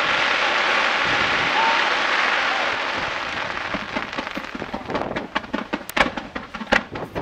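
Fireworks display: a dense hissing, crackling rush that slowly dies away, then scattered rapid crackles with a couple of sharper bangs near the end.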